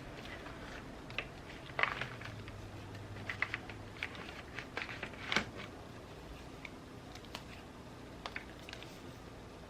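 Irregular small clicks and taps of pens and paper being handled while journaling, the loudest a little past the middle, over a steady hiss of rain.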